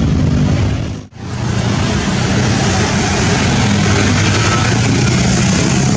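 Loud, steady jet airliner engine noise with a low hum beneath. It cuts out abruptly about a second in and resumes.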